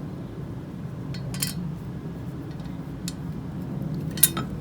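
Small metal parts clinking and tapping as screws, nuts and a bracket are handled and fitted, with a sharp clink about a second and a half in and a louder one near the end, over a steady low hum.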